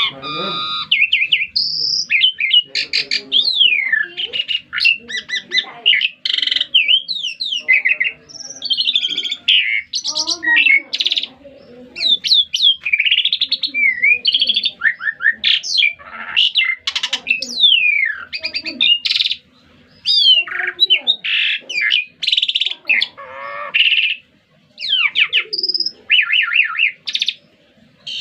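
A songbird in full, vigorous song (gacor): a fast, varied run of whistles, rising and falling sweeps, trills and chirps, almost without a break, with two short pauses in the second half.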